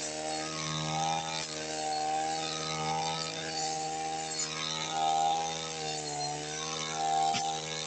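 Brush cutter's small engine running at high speed while cutting grass, its steady whine swelling and easing every second or two as the blade swings through the growth, with a few faint ticks.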